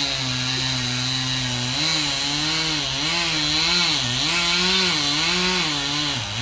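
Chainsaw running, its engine note steady for the first two seconds, then rising and falling over and over.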